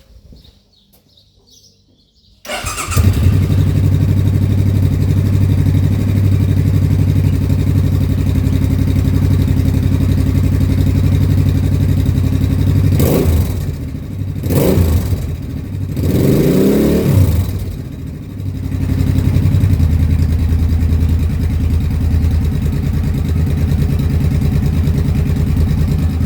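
Suzuki Intruder C800's V-twin, fitted with an aftermarket Miller exhaust, starting about two and a half seconds in and then idling steadily. Around the middle it is revved three times, the last rev held longest, before settling back to idle.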